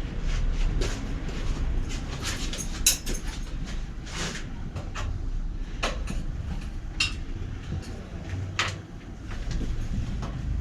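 Scattered clicks, knocks and light rattles of bicycle parts and tools being handled at a workbench, over a steady low rumble.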